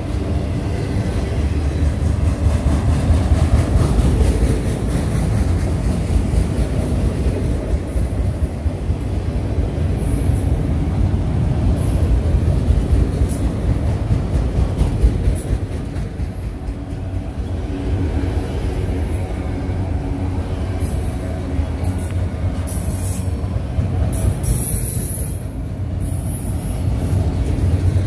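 A train rolling past with a steady, loud low rumble, and brief high-pitched wheel squeals in its second half.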